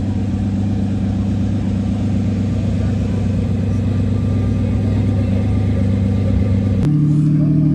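Car engine running steadily at low revs with a deep, even drone; about seven seconds in there is a click and the engine note jumps abruptly to a higher pitch as the revs rise.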